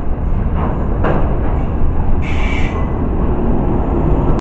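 Passenger train running past close to the platform: a steady heavy rumble of wheels on the rails. A sharp click comes about a second in, and a brief high-pitched squeal a little past halfway.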